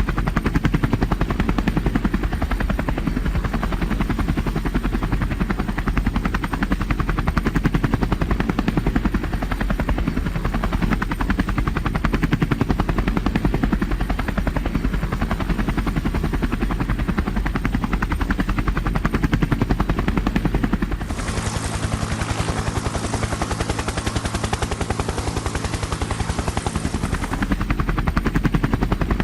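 Tour helicopter in flight: the fast, steady chop of the main rotor over engine noise. About two-thirds of the way through, the sound turns brighter and hissier for about six seconds, then returns to the heavier chop.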